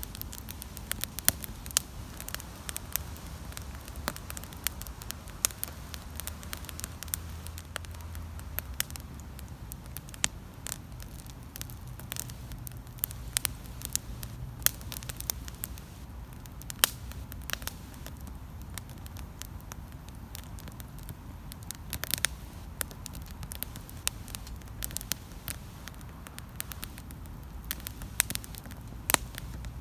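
Wood campfire crackling, with frequent sharp pops and snaps over a steady low rumble. There is a brief flurry of louder pops about two-thirds of the way through.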